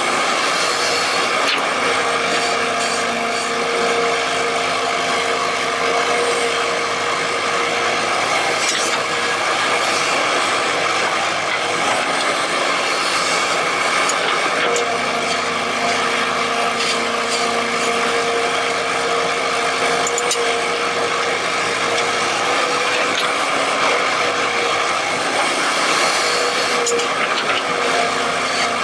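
Excavator working steadily, its machinery running with a whine that rises and falls a little, and a few knocks along the way.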